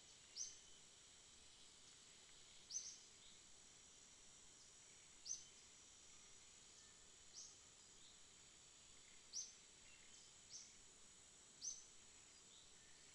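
Quiet night ambience: a steady, high-pitched insect drone, with short high chirps repeating every two seconds or so, about seven times.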